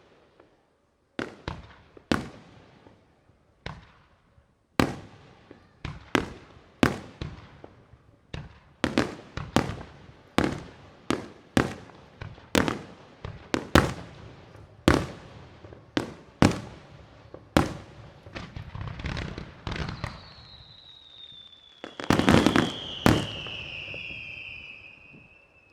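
Fireworks display: aerial shells bursting one after another in sharp bangs, about one to two a second, each ringing out briefly. Near the end comes a denser, loudest volley of bangs, with a whistling tone that falls in pitch.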